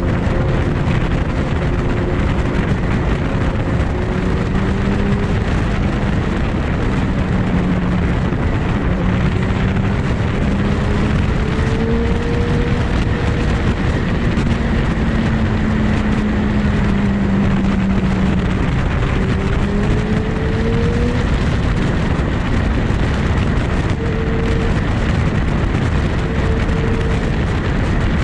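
Sport motorcycle engine running at a steady cruise, its pitch drifting slowly up and down, under a loud, even rushing noise.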